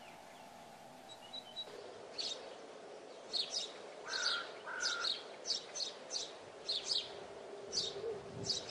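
Small birds chirping: short high chirps repeating once or twice a second from about two seconds in, with two lower whistled notes partway through, over a steady background hum.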